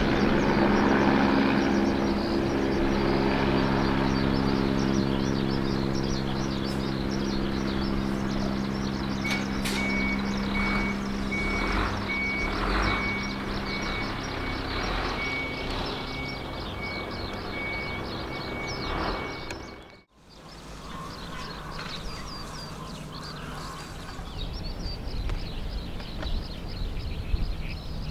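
Kawasaki BK117 C-2 helicopter climbing away, the sound of its two Arriel 1E2 turboshaft engines and four-blade rotor fading with distance. From about a third of the way in, a high electronic beep repeats at an even pace, like a vehicle's reversing alarm, until the sound cuts off abruptly about two-thirds through. After that there is quieter outdoor ambience with birds chirping.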